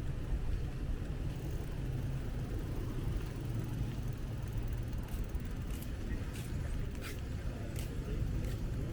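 Steady low rumble of street traffic and wind during a bicycle ride through town streets, with a few faint clicks in the second half.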